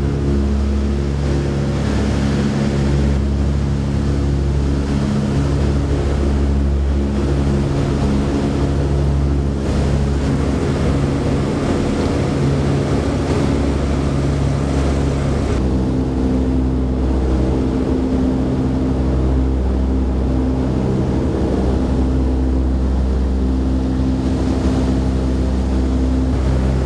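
The B-17 Flying Fortress's four Wright R-1820 Cyclone radial engines running as a loud, steady drone made of several held tones over a deep hum. The mix of tones changes suddenly a little past halfway through.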